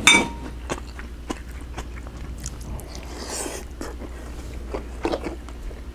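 A person eating pan-fried, egg-battered cod, chewing close to the microphone. There is a sharp click at the start and scattered small clicks and mouth sounds throughout, with a noisier stretch of chewing about three seconds in.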